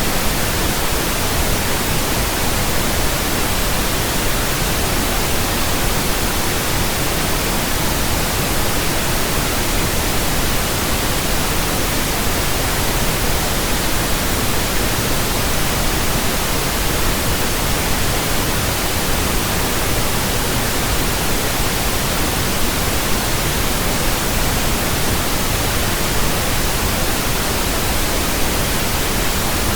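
Steady pink noise from an electronic pink noise generator: an even, unbroken hiss spread across the whole range, played as a burn-in signal for new speakers, headphones and earphones.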